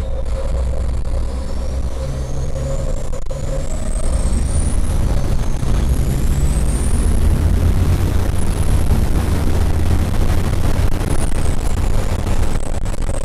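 Racing truck's turbodiesel engine under hard acceleration, with a high whine that climbs in pitch, breaks off and climbs again several times. It gets louder about four seconds in.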